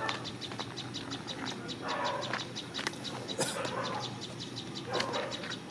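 Rapid, even high chirping, about seven chirps a second, with a few short lower calls now and then.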